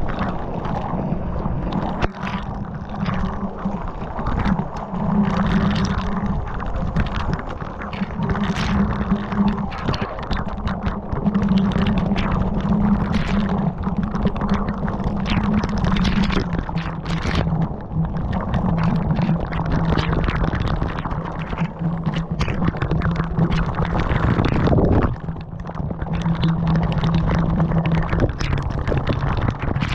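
Loud rushing and crackling of a waterfall's water close to a body-worn camera's microphone, with a low steady hum under it that drops in pitch a few times.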